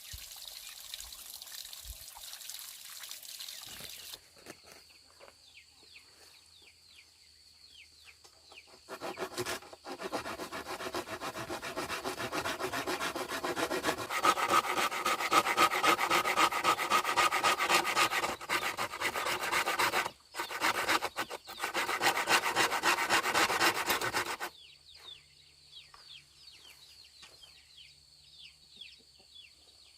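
Rapid rasping strokes of a hand tool working wood. They start about nine seconds in, break off briefly twice, and stop suddenly a few seconds before the end.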